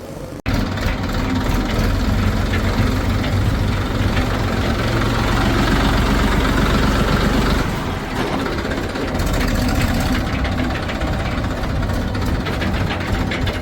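Heavy diesel engine of earth-moving machinery running steadily, with a brief break in the sound about half a second in.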